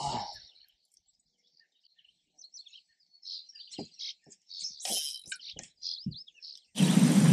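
Small birds chirping in scattered short calls, with a few faint clicks among them. Near the end a loud, steady rushing noise cuts in abruptly.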